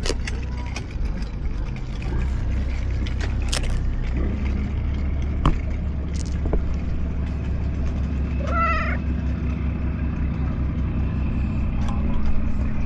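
Calico cat giving one short, wavering meow about two-thirds of the way through, over a steady low hum.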